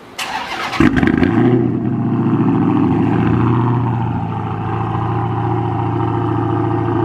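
Dodge Charger Hellcat's supercharged 6.2-litre HEMI V8 cold-starting. A brief crank catches under a second in with a jump in revs, then settles into a steady, rumbling high idle.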